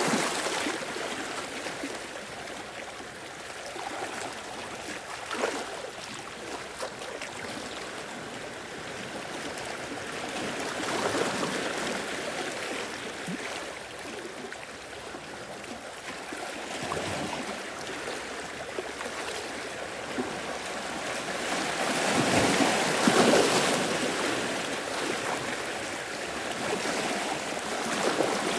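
Sea waves washing in and draining back over the shore, a steady wash that swells with each wave, the biggest about three quarters of the way through.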